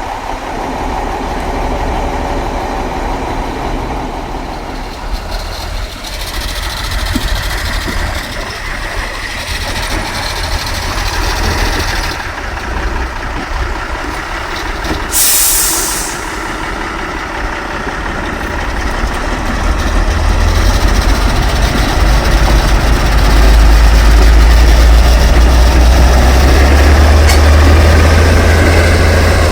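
Heavy trial truck's diesel engine running, with a hiss of air lasting about a second about halfway through. In the last third the engine grows much louder and deeper.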